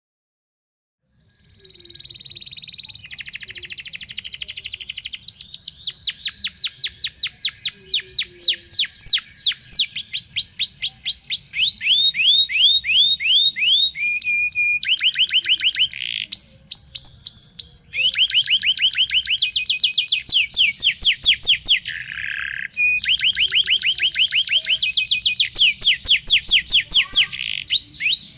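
Domestic canary (Indonesian local canary) singing, starting about a second and a half in: a long, continuous song of fast trills, runs of quick falling notes that change pattern every few seconds, with a few short held whistled notes.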